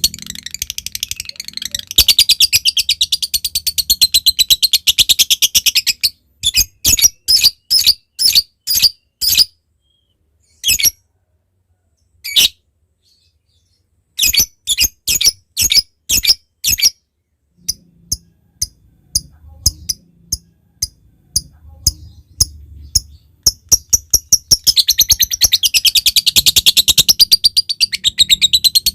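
Lovebird song. It opens with a long, rapid, high-pitched chattering trill (the 'ngekek'). This breaks into loud single chips about two a second, with pauses between them. Then come faint quick ticks (the 'ngetik'), and about 25 seconds in the long chatter starts again.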